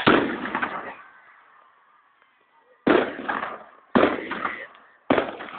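Fireworks going off: a loud burst carrying on from just before the start, then three more sudden bangs about a second apart, each fading out quickly.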